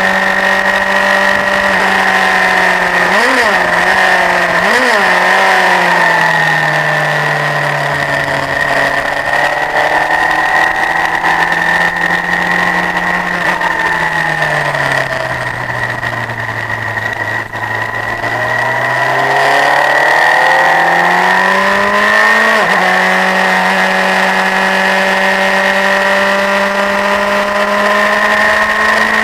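Honda CBF1000 motorcycle's inline-four engine running at steady revs on track, with two quick rev blips a few seconds in. The revs then sag slowly and climb back, jumping up sharply about three-quarters of the way through before holding steady again.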